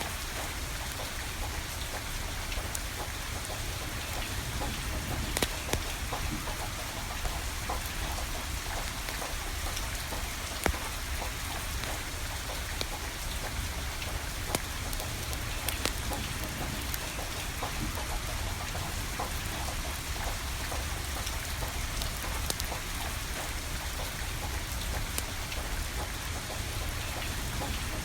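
Steady rain falling, with scattered sharp pops and clicks standing out now and then over the even hiss.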